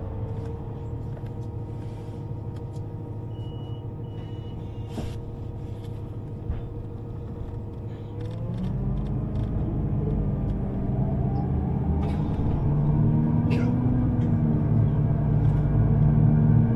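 Electric train running with a steady low rumble, then pulling away about halfway through: the rumble grows louder and a motor whine rises in pitch as it accelerates.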